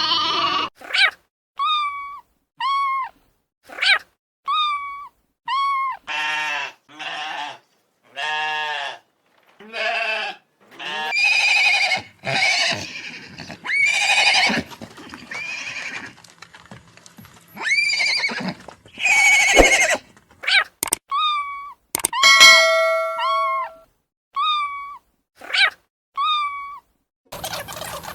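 A string of short animal calls, one after another with brief gaps, of more than one kind, some of them goat-like bleats.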